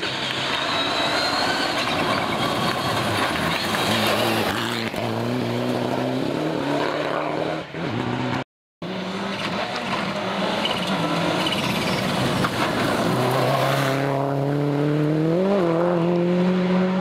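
Rally cars on a dirt stage: engines revving hard and changing pitch through the gears over a dense rush of tyre and loose-surface noise, in two clips joined by a sudden cut about halfway, the engine note climbing sharply near the end.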